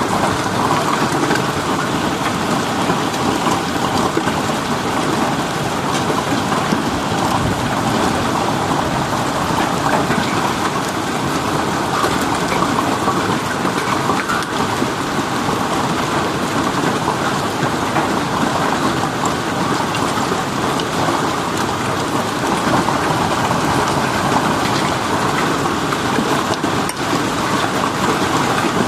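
Heavy rain pouring down in a violent storm, a dense steady hiss of drops striking surfaces.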